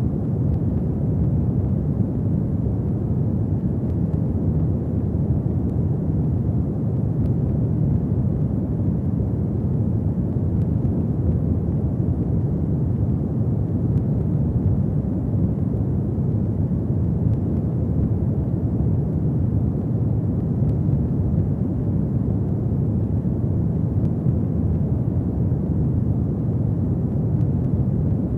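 Fireplace fire burning with a steady low rumble and a few faint crackles.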